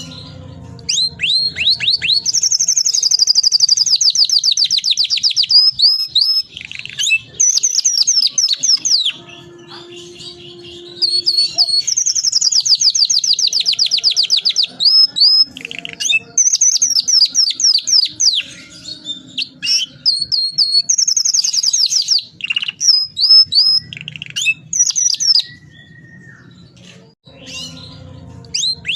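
Domestic canary singing vigorously in long rolling trills of very rapid repeated notes, in phrases of several seconds broken by short pauses.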